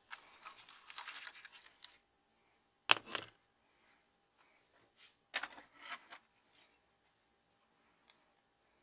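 Small hand-work sounds at a workbench: scratchy cutting or rubbing strokes, a sharp click about three seconds in, then another scratchy stretch and a few light ticks.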